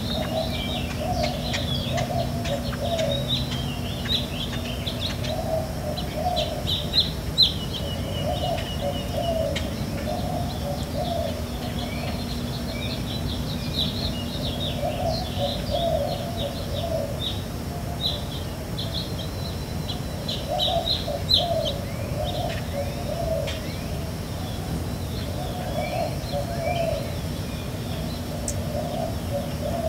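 Birds chirping, many short quick notes, with a lower repeated call in short phrases every few seconds, over a faint steady hum.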